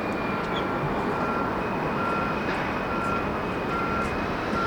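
Steady rumble of jet engines from an airliner on approach. Over it, a ground vehicle's reversing alarm beeps a little more than once a second.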